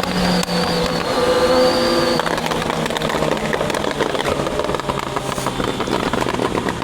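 Triumph Daytona 660 inline-three engine holding a steady high-revving tone, then dropping to lower revs about two seconds in, with wind rush over the engine from then on.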